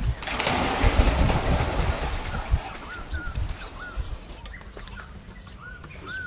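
A bird calling over and over with short rising-then-falling notes, about two a second, growing louder near the end. Under it, a rushing, hissing noise, loudest in the first two seconds and then fading, with irregular low rumbling.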